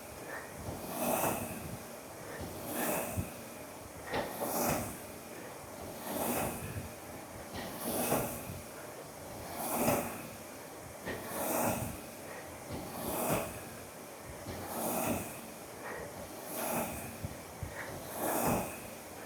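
Ski erg pulled hard and steadily, its fan wheel whooshing with each pull, about one stroke every 1.7 seconds, with heavy breathing in time with the strokes.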